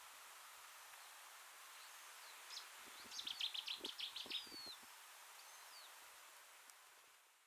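Quiet outdoor ambience with a steady hiss. Near the middle, a small songbird gives a quick run of about ten high notes ending in a falling whistle, with a few thin whistles before and after and soft low rustles beneath. The sound fades out at the end.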